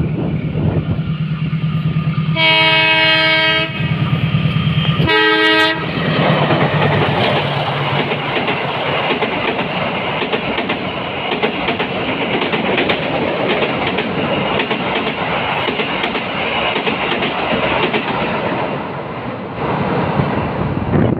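Diesel-hauled passenger train sounding its horn twice as a greeting: a long blast about two and a half seconds in and a short one near six seconds, over a steady engine drone. The coaches then rumble past, their wheels clattering on the rails.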